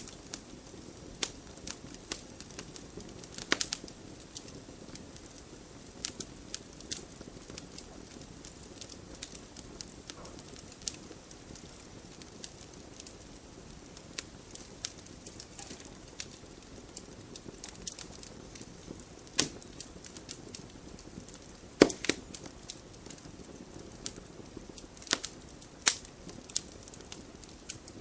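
Wood fire crackling in a fireplace: a steady low hiss of the burning logs with scattered sharp pops and snaps. The loudest pop comes about 22 seconds in.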